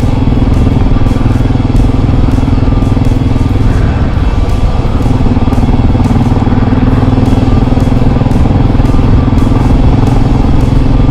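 Motorcycle engine running steadily at cruising speed, heard from the rider's seat. Its note changes briefly about four seconds in, then settles again.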